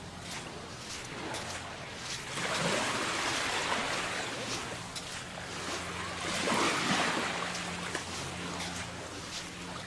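Small Gulf of Mexico waves washing onto a sandy beach, the surf swelling twice, about two seconds in and again past the middle. A faint, steady low hum runs underneath.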